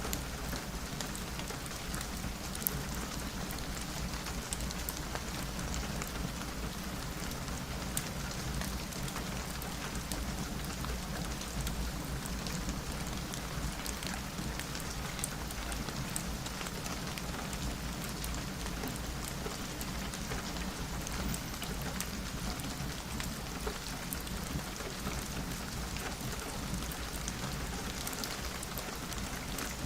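Steady rain on a window, with scattered sharp ticks over a constant low rumble.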